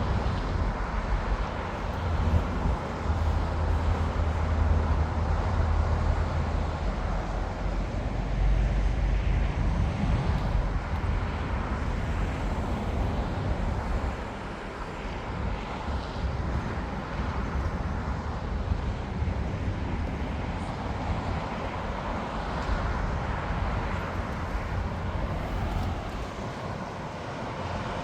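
Jet airliner engines running, a broad noise with a heavy low rumble that eases off about halfway through.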